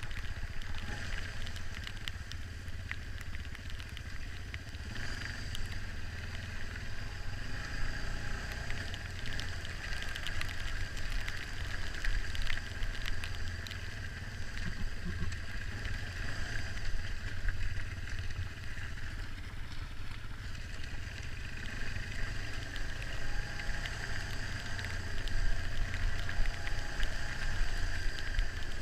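Dirt bike engine running steadily while riding, with a low rumble and scattered small knocks.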